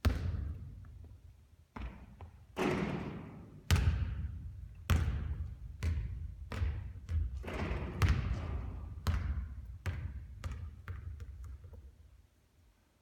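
A basketball bouncing on a court floor: a string of heavy thuds, each with a ringing echo, that come quicker and fainter near the end as the ball settles.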